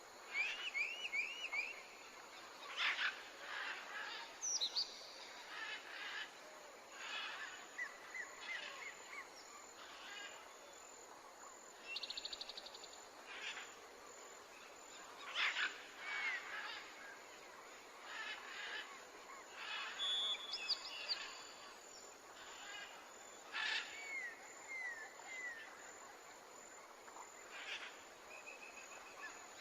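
Birdsong from a nature soundtrack: several birds chirping, trilling and whistling in short calls scattered throughout, over a faint steady hiss.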